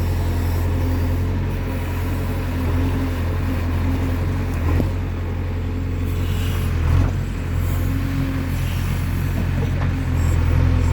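Heavy diesel engine running steadily with a deep, even hum, and a couple of brief knocks about five and seven seconds in.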